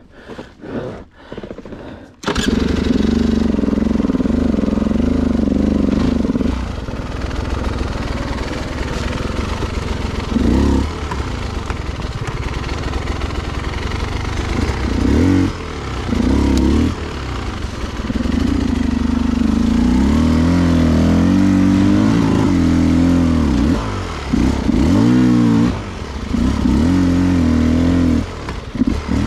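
Beta 300 two-stroke enduro motorcycle engine. It comes in suddenly about two seconds in, then runs with the revs repeatedly rising and falling under short bursts of throttle.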